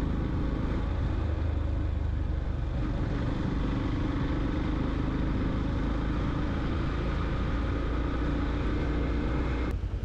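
Motorcycle riding at a steady speed: a low engine hum mixed with wind and road noise, cutting off abruptly near the end.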